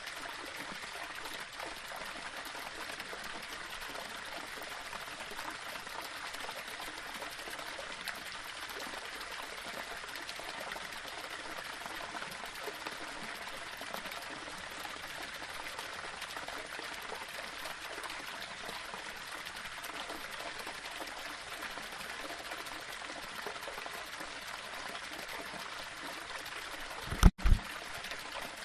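Small waterfall flowing steadily over rocks, an even rush of water. Near the end a brief, very loud low double thump cuts in.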